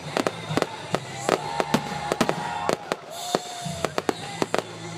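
Fireworks display: a rapid, irregular string of sharp bangs and crackles, with a few whistling tones among them.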